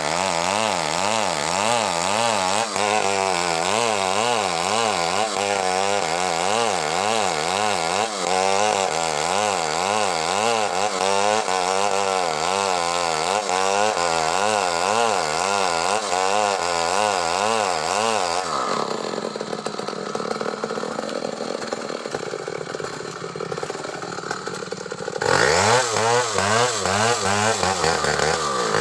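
Stihl chainsaw ripping a coconut palm trunk lengthwise into a beam, its engine pitch swinging up and down steadily as the chain bites. About two-thirds of the way through it drops to a lower, quieter running for several seconds, then revs back up and cuts on.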